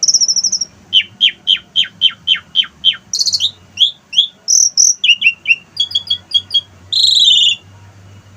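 Asian pied starling singing a varied song of mimicked wild-bird calls: quick series of sharply down-sliding whistled notes, chattering and trilled phrases, and a longer harsh buzzy note about seven seconds in, after which it stops.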